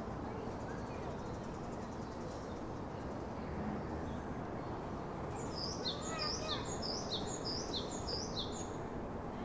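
A wild bird singing a rapid series of short, falling high notes, about three a second, for around three seconds over steady outdoor background noise.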